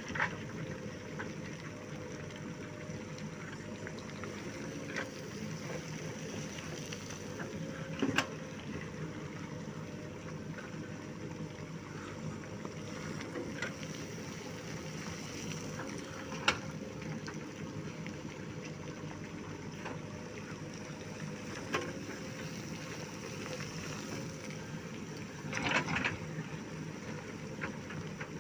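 JCB backhoe loader's diesel engine running steadily, with a few sharp knocks of stones landing in its steel bucket.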